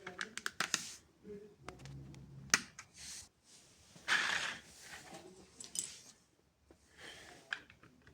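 LEGO pieces handled and pressed together: irregular clicks and rustling, with a sharp click about two and a half seconds in and a short scraping rustle about four seconds in.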